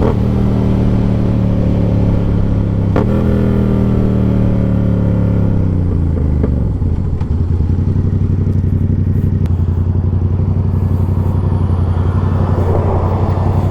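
Motorcycle engine whose revs fall slowly over about six seconds as it slows down, then settles into a steady idle.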